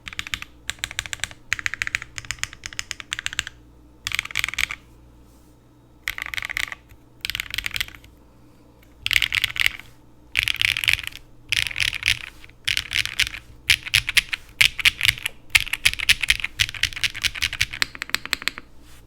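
Mechanical keyboard fitted with factory-lubed Keygeek MZ Y1X linear switches, typed on in bursts of rapid keystrokes with short pauses between them. The typing gets faster and denser past the middle and stops just before the end.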